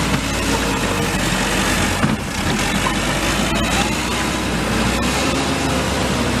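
A loud, steady rushing noise spread evenly from low to high pitch, with a low hum beneath it.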